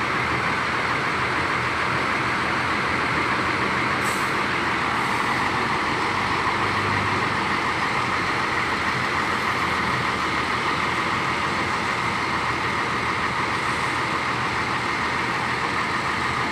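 Diesel bus engines running in a bus terminal, a steady engine and traffic noise. A short high hiss comes about four seconds in.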